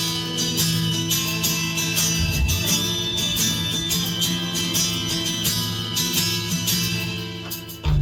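Instrumental guitar break in a rock song: strummed guitar chords over a steady bass, thinning out and dropping away just before a fuller band re-enters at the end.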